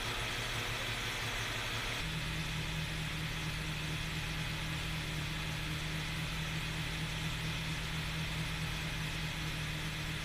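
Freshly cammed Nissan TB42 4.2-litre petrol straight-six running steadily through its camshaft break-in. Its note changes abruptly about two seconds in and then holds steady.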